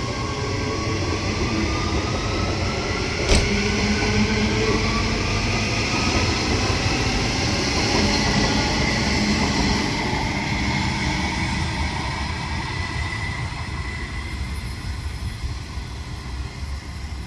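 Electric suburban train running through a station: steady wheel-on-rail rumble with a motor whine that rises in pitch over the first few seconds, a sharp click about three seconds in, and a faint high-pitched squeal around the middle.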